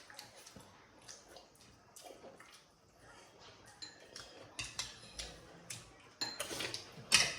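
Spoons and tableware clinking against bowls and plates during a meal: scattered light knocks that grow busier and louder near the end, the loudest clink just before it stops.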